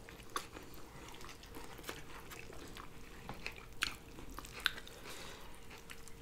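Faint, close-miked chewing of food, with scattered soft mouth clicks and smacks.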